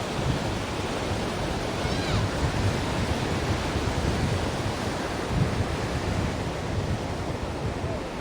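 Ocean waves breaking and washing onto the shore, a continuous rushing surf that swells and eases.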